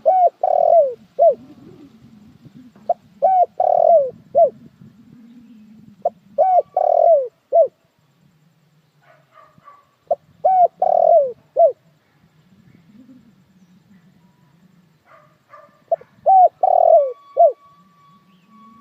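A puter dekukur dove cooing: five phrases, each a quick run of four or five coos, repeating every three to five seconds.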